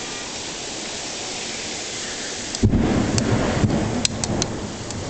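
Heavy rain pouring steadily, then, about two and a half seconds in, a sudden loud thunderclap that goes on rumbling with a few sharp cracks.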